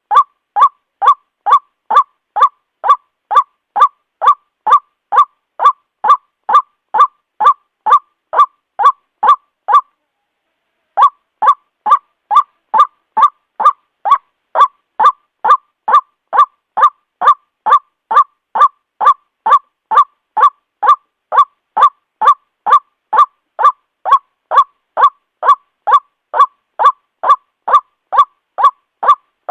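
White-breasted waterhen (ruak-ruak) giving its monotonous, repeated honking call, about two notes a second, with a pause of about a second roughly a third of the way through.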